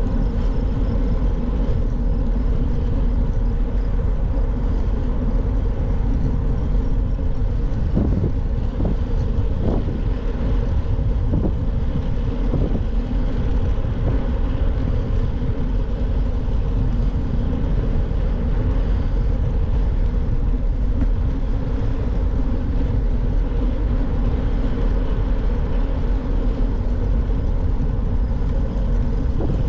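Steady rush of wind on the microphone and road noise from a moving bicycle, with a few faint ticks about eight to thirteen seconds in.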